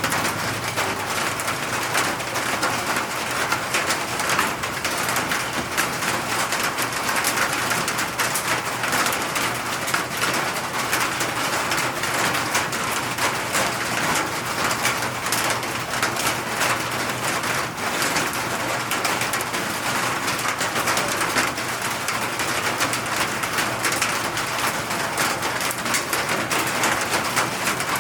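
Steady rain falling, a dense even patter of drops hitting surfaces, with a bird calling at times.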